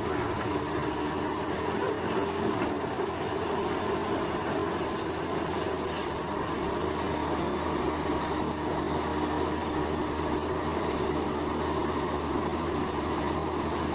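Bulldozer's diesel engine running steadily at work, with a rapid high-pitched chirping going on throughout.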